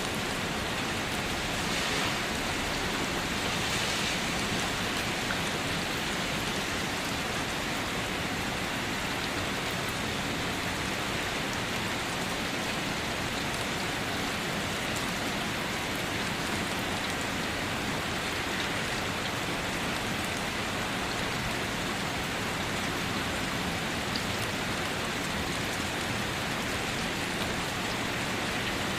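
Steady rain falling and pattering on surfaces, an even hiss of raindrops with no thunder.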